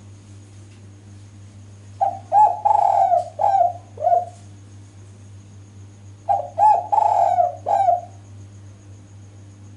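Spotted dove (female, as the recording is billed) cooing: two phrases, each a run of four or five short coos lasting about two seconds, about two seconds in and again about six seconds in. A steady low hum runs underneath.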